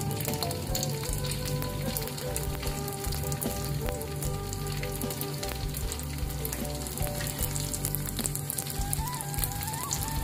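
Half-fried eel pieces frying a second time in hot oil in an aluminium wok to crisp them: a steady sizzle with constant fine crackling. A metal spatula stirs them near the end.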